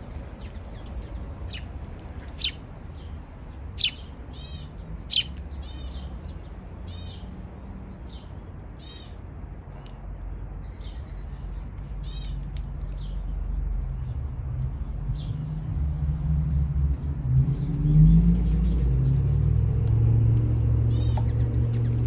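Small songbirds chirping in short, scattered notes. Under them a low rumble builds through the second half and is loudest near the end.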